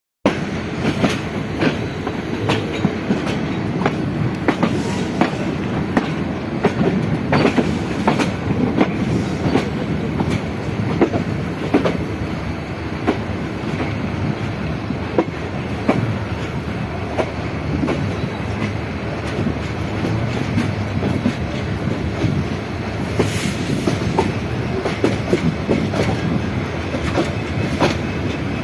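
Passenger train running along the line: a steady rumble with frequent irregular clicks and clacks of the wheels over rail joints.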